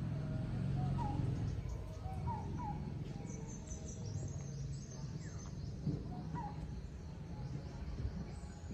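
Birds calling with a few short chirps, over faint music.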